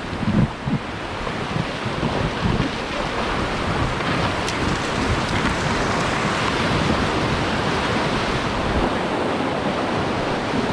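Whitewater rapids rushing and splashing around a river raft as it runs through, a dense steady rush of water with wind buffeting the microphone. A few low knocks come in the first second.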